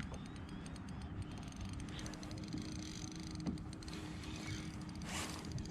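Fishing reel being wound in with faint, even ticking while a fish is brought up to a kayak, over a steady low rumble of wind and water on the microphone, with a few soft knocks.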